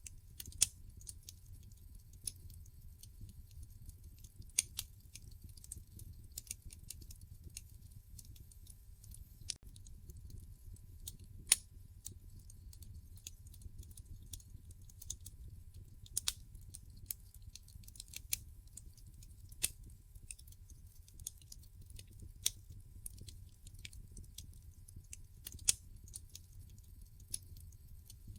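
Wood fire crackling in a fireplace: irregular sharp pops and snaps, about one a second with a few louder ones, over a faint low rumble.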